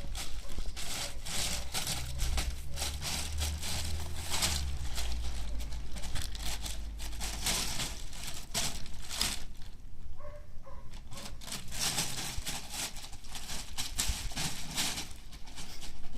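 Puppy at play: a run of rustling, scuffling and crinkly scraping noises, with a low rumble through the first few seconds.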